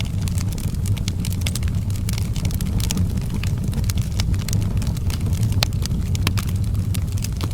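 Outdoor fireplace fire burning: a steady low rumble under frequent, irregular sharp crackles and pops.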